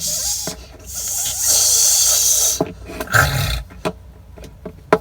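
An animal growling and hissing, with a long hiss lasting about two seconds, followed by a short low thump about three seconds in.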